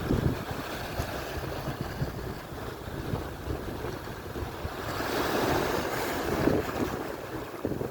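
Atlantic surf: a wave breaks and washes in, swelling louder about five seconds in, over a steady wash of sea noise. Wind buffets the microphone with a low rumble.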